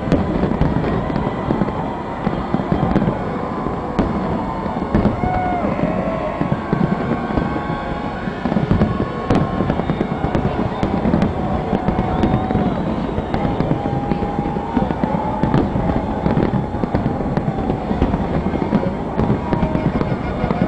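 Fireworks finale: a dense, unbroken barrage of bangs and crackling, many bursts every second.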